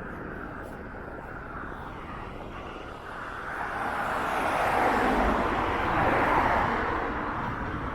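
A vehicle passing by on the street, its noise swelling over a few seconds, loudest about halfway through, then fading.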